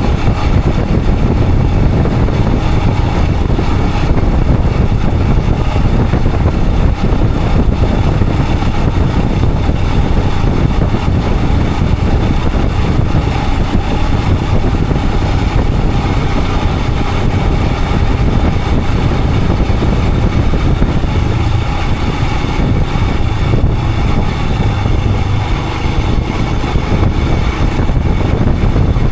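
Royal Enfield Himalayan 411's single-cylinder engine running at a steady cruise, heard through a dense rush of wind and road noise that stays even throughout.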